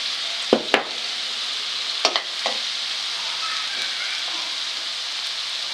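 Chopped onions and green chillies sizzling steadily in hot oil in a wok, with a metal spoon stirring and knocking against the pan a few times in the first half.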